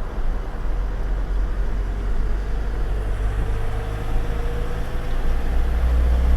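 Truck's diesel engine running under way with road noise, a steady low rumble that grows a little louder in the last couple of seconds as the truck gathers speed.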